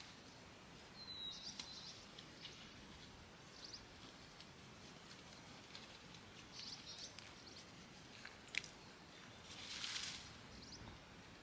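Faint, scattered short bird chirps and calls over a quiet outdoor background, with one short falling whistle about a second in. A sharp click comes shortly before a brief hissing rustle near the end.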